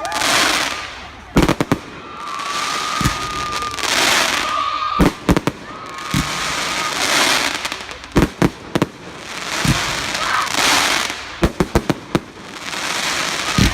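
Fireworks display: sharp bangs, often several in quick succession, every second or two, between swells of hissing, with thin whistling tones in the first half.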